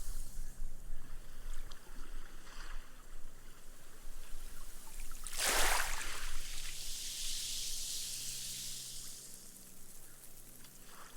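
Small, gentle waves lapping on a sandy beach. A wavelet breaks about halfway through, then the wash runs up and sinks into the sand with a fizzing hiss of bursting foam that fades over a few seconds.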